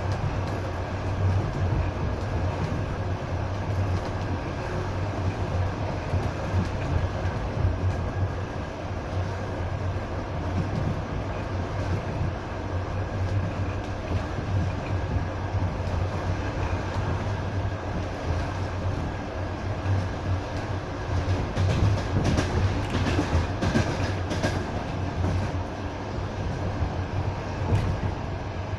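Passenger train running along the track, heard from aboard: a steady low rumble of the carriage and wheels on the rails, with a run of sharper wheel clicks over the rails about three quarters of the way through.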